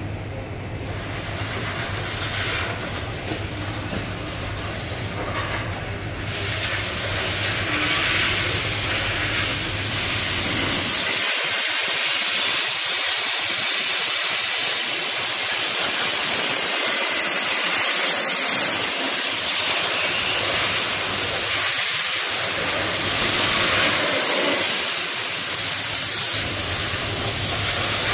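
Compressed air hissing from a pneumatic body-shop tool, growing louder over the first ten seconds and then steady, over a low hum that fades out partway through.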